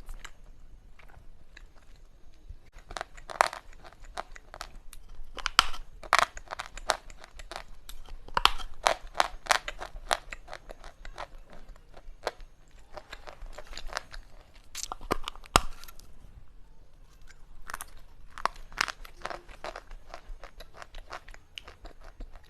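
Slate pencils being bitten and chewed close to the microphone: bursts of sharp crunches, a few seconds apart, with short lulls between them.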